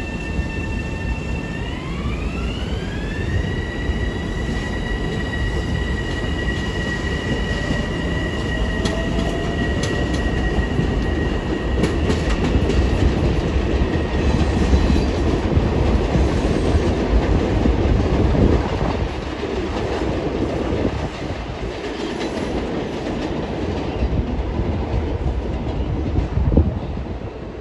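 Electric Long Island Rail Road train: a whine with several overtones rises in pitch about two seconds in and then holds steady as the train accelerates. Under it, a steady rumble of wheels on rail, with clicks over the rail joints, grows loudest in the middle.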